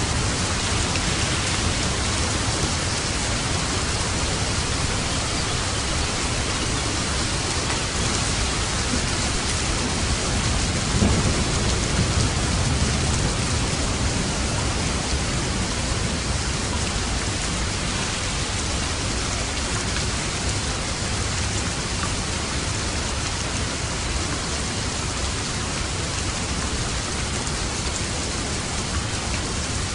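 Steady heavy rain with a low rumble of thunder, which swells briefly about eleven seconds in.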